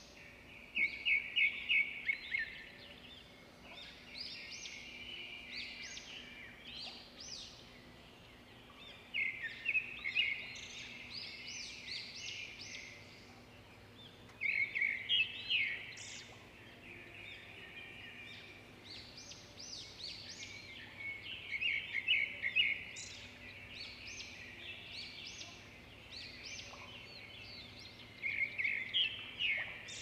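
Birdsong: a bird singing bursts of rapid high chirps and trills about every six or seven seconds, with quieter twittering between, over a faint steady low hum.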